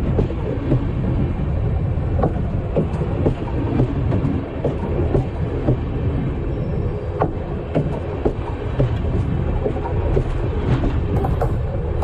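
Broad-gauge train running over the camera on the track, heard from beneath: a continuous heavy rumble of wheels and carriages, with irregular clicks and knocks from the rails.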